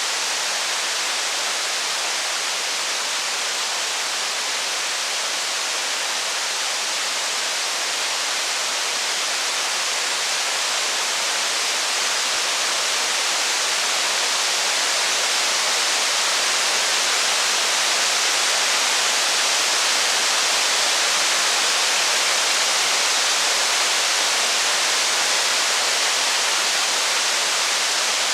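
Steady rain, an even hiss without breaks, growing a little louder in the second half.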